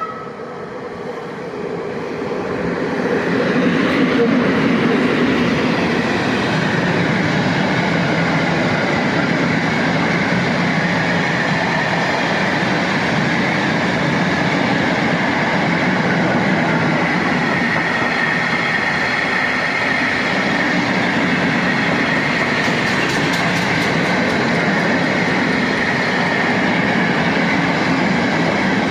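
PKP class ET22 electric locomotive hauling a freight train of Talbot hopper wagons past at speed: a brief high tone at the very start, then the noise of the train builds over about four seconds as it arrives and continues as a steady, loud rumble and clatter of wagons rolling by.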